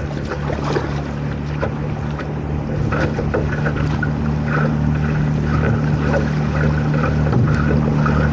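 Boat engine running with a steady low drone, with water rushing and splashing against the hull.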